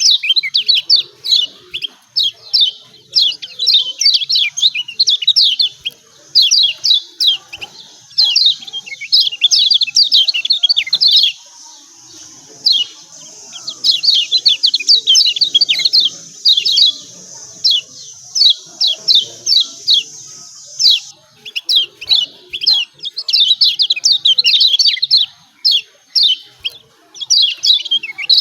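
Kecial kuning (Lombok white-eye) singing its fast 'ciak ciak' chatter: rapid runs of short, high, downward-slurred notes, broken by a couple of brief pauses.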